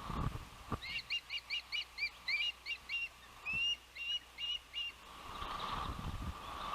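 Osprey calling: a string of short rising whistled chirps, about five a second, then a few longer drawn-out notes, stopping about five seconds in. Wind buffets the microphone at the start and again near the end.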